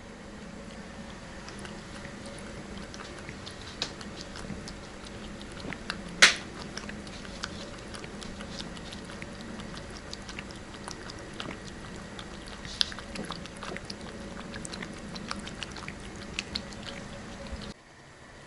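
A cat lapping cream: a steady run of small wet clicks, with one much louder click about six seconds in. The sound cuts off abruptly just before the end.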